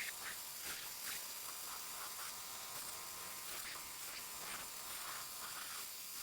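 Faint, short scraping strokes of a carving knife paring small birch, several a second at an uneven pace, over a steady low hiss.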